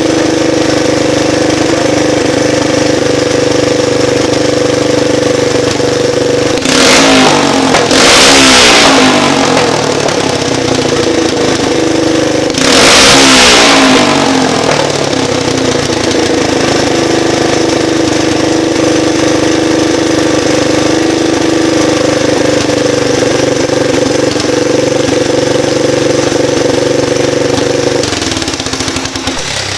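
1983 Honda three-wheeler's single-cylinder engine running through a custom straight pipe: loud, steady idle, revved hard twice, about seven and about thirteen seconds in, each rev falling back to idle. Near the end the engine sound drops away.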